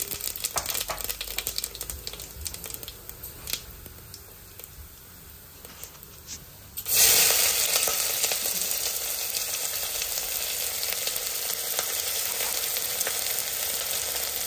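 Whole spices sizzling in hot oil in a cooker pot, the sizzle fading. About seven seconds in, sliced onions go into the overheated oil with a sudden loud sizzle that then runs on steadily.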